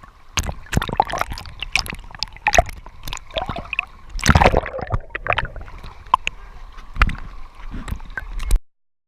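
Water splashing and gurgling close to the microphone in irregular sharp splashes, cutting off suddenly near the end.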